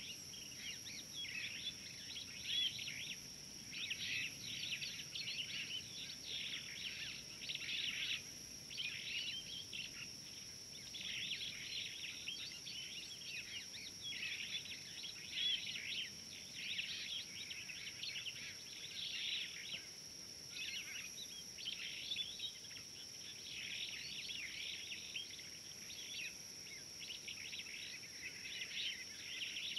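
Many small birds chirping and calling continuously in dry bush, over a steady high-pitched tone.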